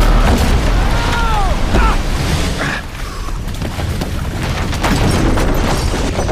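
Film sound effects of a theater collapsing under a flood: a loud, heavy rumble of rushing water and crashing structure, dipping a little about three seconds in.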